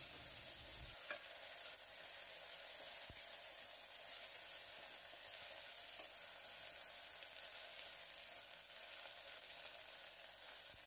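Onions and ginger-garlic paste frying in oil and ghee in an aluminium pressure cooker, a faint, steady sizzle, stirred with a wooden spatula. A light tap comes about a second in.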